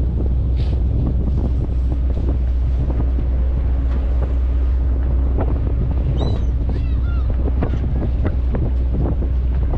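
Fishing trawler's engine running at a steady drone, with wind buffeting the microphone. Scattered light knocks and a few short high squeals come about six to seven seconds in.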